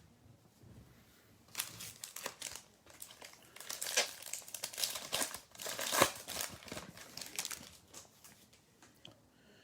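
Wrapper of a pack of trading cards crinkling and crackling as it is torn open, a run of crackles from about a second and a half in until near the end.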